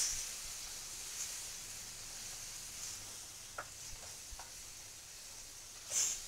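Tomato puree frying gently in hot oil and spices in a kadhai with a faint, steady sizzle, stirred with a wooden spatula, a few light scrapes and ticks, and a brief louder sizzle near the end.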